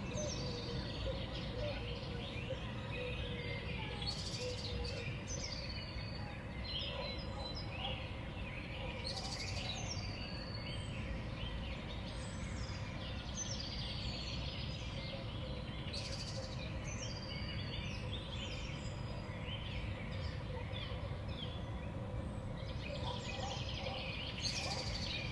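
Small songbirds calling: many short chirps and high call notes, scattered and overlapping, over a steady low rumble.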